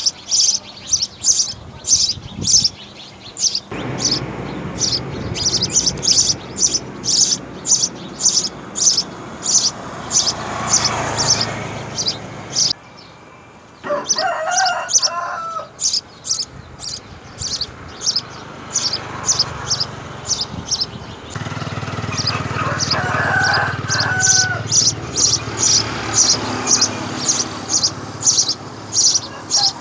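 A small bird chirps rapidly and repeatedly in short, high notes, about two or three a second. A rooster crows in the background twice, once about 14 seconds in and again around 23 seconds.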